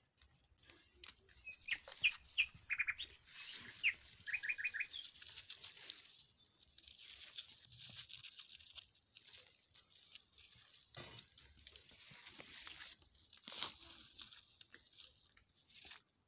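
A small bird chirping a few short notes, including a quick run of four or five, in the first five seconds. Throughout there is rustling and crackling of leaves and plants being brushed and handled, with a couple of sharp snaps later on.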